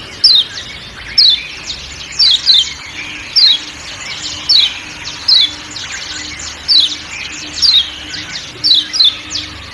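Kecial kuning (Lombok yellow white-eye, a Zosterops) giving its sharp 'ciak ciak' call: short notes falling in pitch, repeated about once a second and sometimes doubled, over softer twittering.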